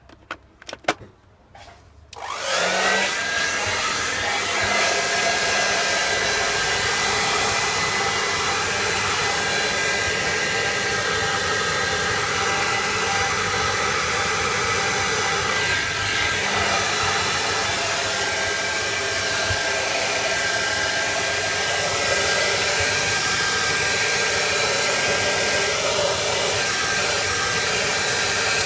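Handheld hot-air blower switched on about two seconds in, its motor whine rising briefly as it spins up, then running steadily until it stops at the very end. It is blowing hot air on the iced-up back of a fridge freezer's fridge compartment to defrost it.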